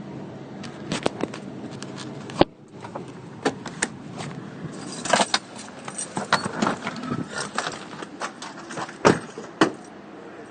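Irregular clicking and rattling, like small objects being handled, over a steady low rumble. There is a cluster of sharp clicks in the middle and a few loud knocks.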